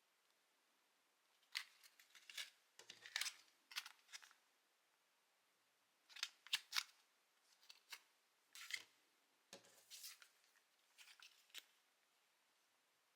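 Faint clusters of sharp little clicks and crinkles, four groups with short quiet gaps between them, like small objects or packaging being handled close to the microphone.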